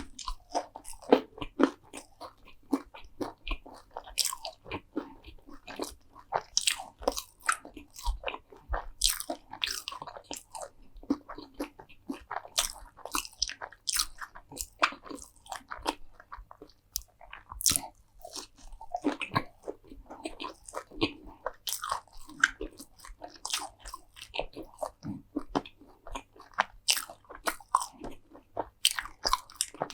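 Close-miked eating: crisp crunching bites and chewing of crunchy food, a dense run of sharp crackles several times a second.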